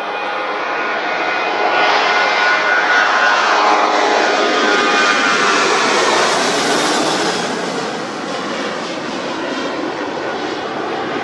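Jet airliner's engines at takeoff power as it passes by, a loud rushing roar that swells over the first couple of seconds and eases after about seven seconds. Its whine glides down in pitch as it goes past.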